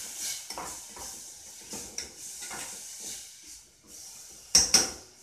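Broccoli sizzling in olive oil in a saucepan while it is turned with silicone tongs: a soft hiss under repeated scrapes and knocks of the tongs against the pan, with two sharper clacks about four and a half seconds in.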